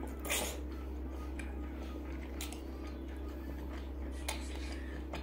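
Close-up eating sounds of grilled pork sausage (nem nướng): a wet bite and smack just after the start, then scattered mouth clicks and smacks while chewing, over a steady low hum.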